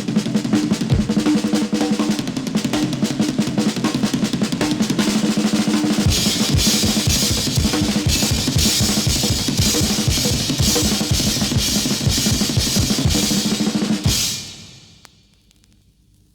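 Instrumental rock passage led by a drum kit playing fast, busy rolls over sustained low keyboard tones. Pounding bass drum and crashing cymbals come in about six seconds in. The music stops abruptly near the end and leaves only a faint decaying tail.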